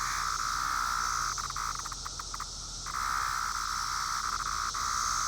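Male 17-year periodical cicada singing close by: a loud, steady buzzing call that breaks off briefly about two and a half seconds in, then starts again.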